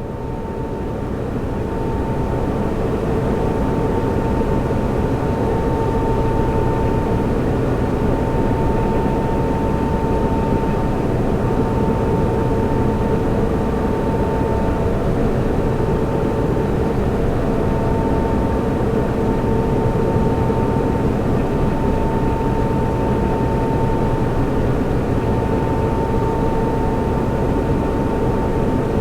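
Server room ambience: the steady rush of cooling fans with a constant thin whine and a lower hum running through it. It swells up over the first couple of seconds, then holds level.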